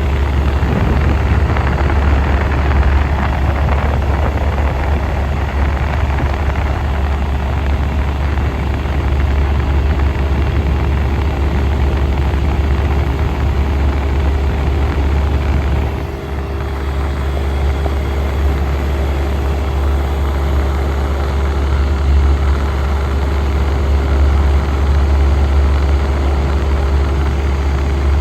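1967 Chrysler Airtemp Imperial air conditioner running steadily, with a strong low hum and a steady whir over it. The level dips briefly a little past halfway, then carries on as before.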